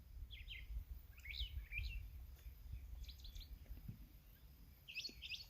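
Songbirds chirping in short bursts of quick notes, four times, over a low steady outdoor rumble.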